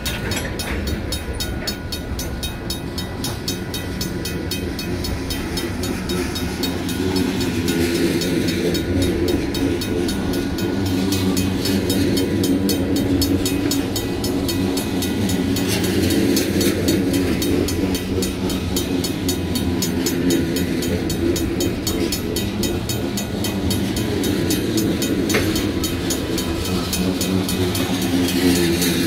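Covered hopper freight cars rolling past over a grade crossing: a steady rumble of steel wheels on the rails, growing a little louder about a quarter of the way in.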